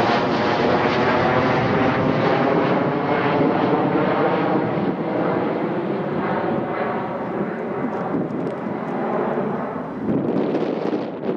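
Business jet's engines running loud as the aircraft passes, the high end of the sound fading as it moves away. Wind buffets the microphone near the end.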